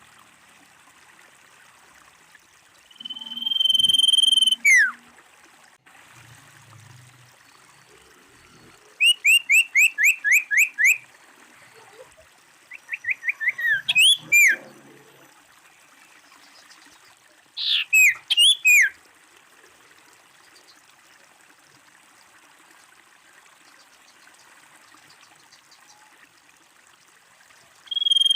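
Common iora calling: a long held whistle ending in a falling slur, then a rapid run of about eight short rising notes, a quickening series running into falling whistles, and a short cluster of notes near the end. A faint steady hiss lies under the calls.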